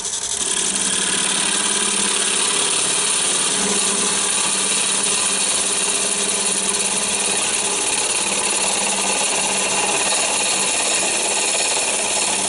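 Wood lathe running with a turning tool cutting into the spinning log blank: a steady rasping hiss over the motor's hum as bark and rough wood are stripped off. The cut picks up just after the start.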